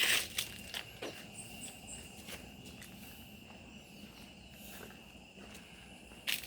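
Footsteps on a forest trail. There is a sharp crunch right at the start and another near the end, with lighter steps between. A steady, high-pitched insect drone runs underneath.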